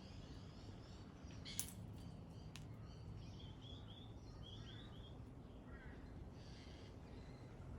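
Faint pale-headed rosella chirps: a quick series of short, high notes in the middle, then a few lower ones, over a steady low hum. A sharp click comes about one and a half seconds in.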